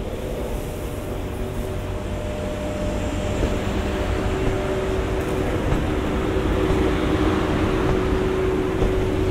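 A train running, its rushing noise growing gradually louder, with a steady low hum and a faint steady whine.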